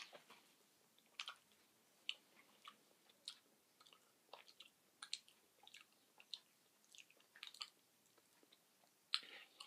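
Faint, wet mouth sounds of a person chewing a cream-filled chocolate, with scattered small clicks and smacks.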